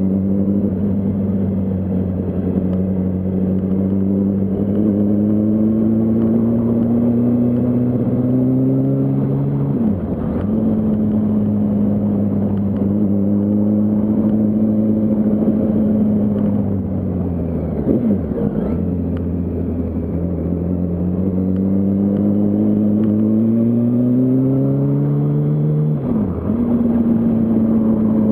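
Yamaha R1's inline-four engine under way, its pitch climbing slowly as the bike gathers speed and dropping sharply at a gear change about ten seconds in and again near the end, with a brief dip and recovery midway.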